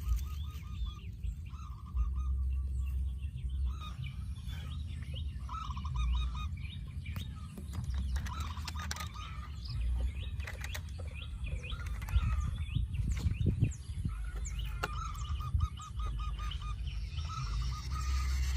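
Bird-like chirping in short repeated runs of wavering notes, over a low rumble, with scattered clicks and knocks that are denser and louder between about 12 and 14 seconds in.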